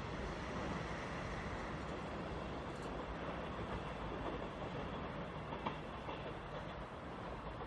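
Seoul Metro Line 1 electric train running along the track, heard from on board: a steady rumble of wheels on rail with one sharp click about five and a half seconds in.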